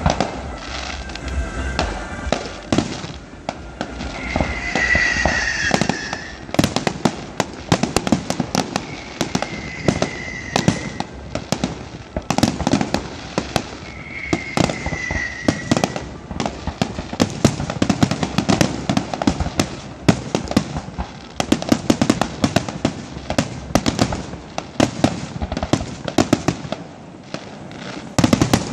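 Fireworks and firecrackers going off: a dense, rapid string of sharp bangs and crackles. A high whistle, falling slightly, is heard three times.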